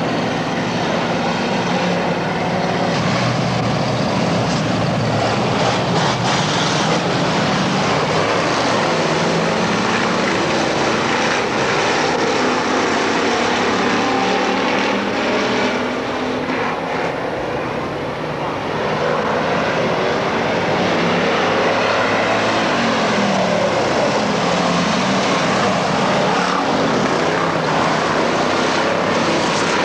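Dirt-track race cars running at speed on the track: a loud, continuous engine noise with pitch that rises and falls as cars pass, slightly quieter for a moment about halfway through.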